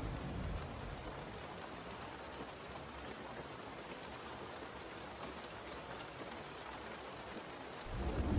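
Steady rain falling, an even hiss with a patter of drops. A low rumble fades out about half a second in and comes back just before the end.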